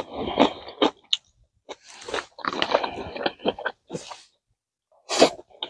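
A person chewing food close to the microphone, in irregular wet mouthfuls with short pauses between, and one sharper, louder burst about five seconds in.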